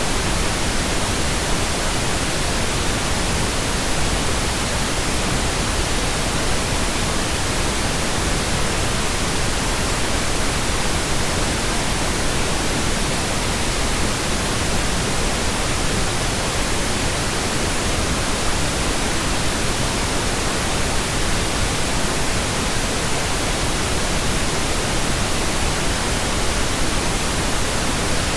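Steady, unchanging pink noise, synthetically generated: an even hiss spread across all pitches, with no events or changes.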